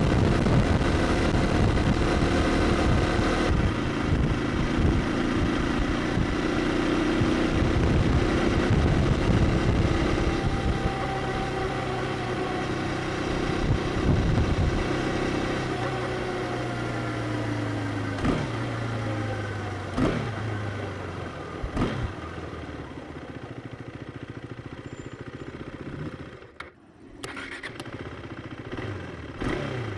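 KTM Duke 390's single-cylinder engine pulling at speed, then winding down with its pitch falling as the bike slows, with a few sharp bursts along the way. Near the end it settles to a quieter, lower running.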